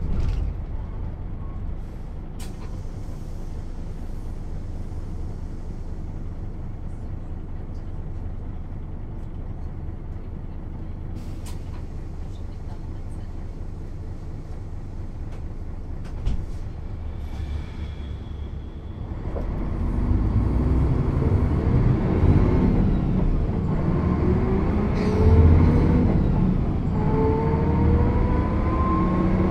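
Mercedes-Benz O 407 bus with manual gearbox, its diesel engine running with a steady low hum, then pulling away about two-thirds of the way in. The engine note rises and drops back several times as it accelerates through the gears.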